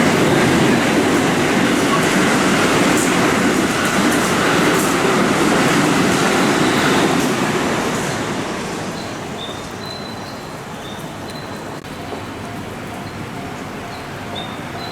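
Electric commuter train rolling along the platform, its wheel and motor noise loud for the first half and then dying away as it slows. Short, thin brake squeals come in during the second half as it draws to a stop.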